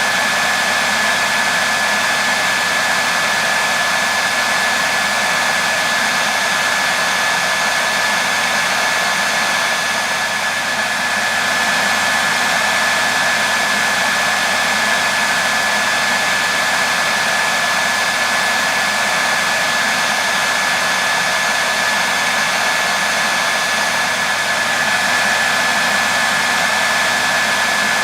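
Hair dryer running continuously: a steady rushing of air from the fan with a constant high whine from the motor.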